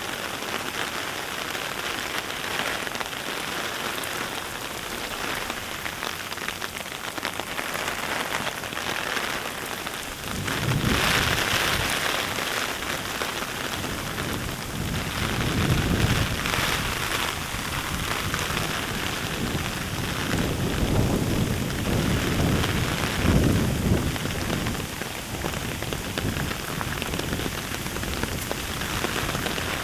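Heavy rain falling steadily, growing louder about ten seconds in, with several deep low rumbles rising and fading in the second half.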